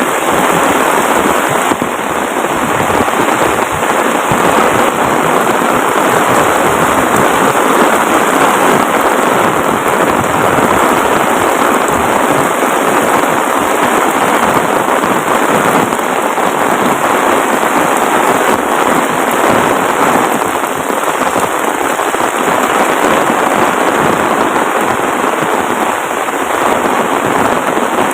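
Heavy rain falling steadily, a dense, even hiss of countless drops striking surfaces.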